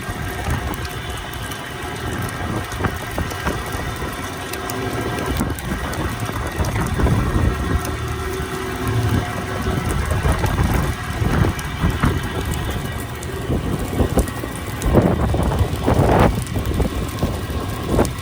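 A fishing boat's engine running steadily under a constant low rumble of wind on the microphone, with stronger gusts buffeting near the end.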